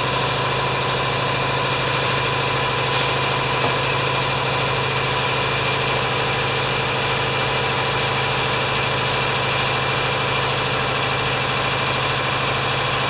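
A motor running at one steady speed, an even hum that starts suddenly and drops away about 13 seconds in.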